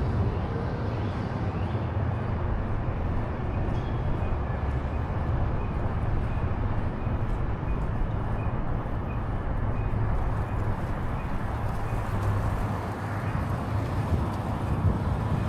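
Steady city street traffic noise with a low rumble from passing vehicles. A faint, regular high ticking, about one and a half a second, runs through the middle.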